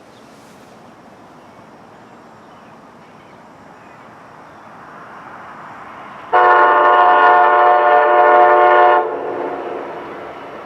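Passenger train approaching with a growing rumble, then sounding its air horn in one long blast of about three seconds, a chord of several tones, starting about six seconds in; the train's running noise carries on after the horn stops.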